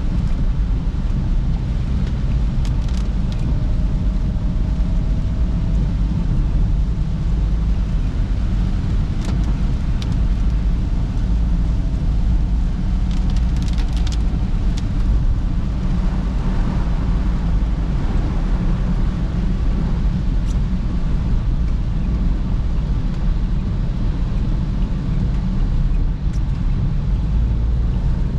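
Perodua Bezza car driving on a wet road: steady engine and tyre rumble, heavy at the low end, with a few sharp ticks scattered through.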